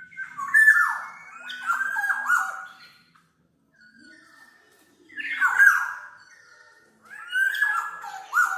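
Black-naped oriole (kepodang mas) singing: three phrases of loud whistled notes that slide and fall in pitch, with a pause of about two seconds after the first.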